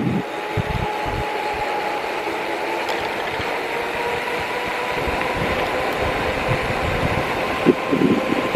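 Steady running noise of a moving bike, with a faint whine that slowly rises in pitch and wind buffeting the microphone in irregular gusts.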